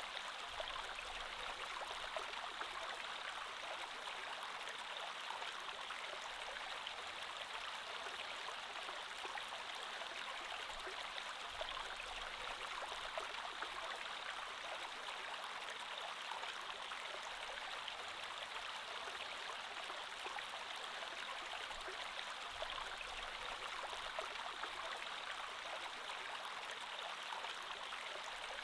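A creek flowing steadily, giving an even rush of running water.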